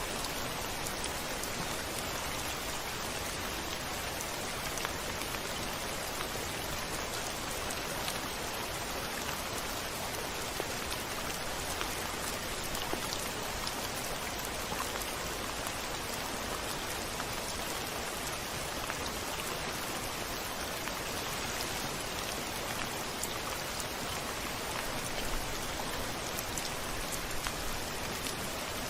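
Steady heavy rain, falling evenly with a dense patter of drops and no thunder.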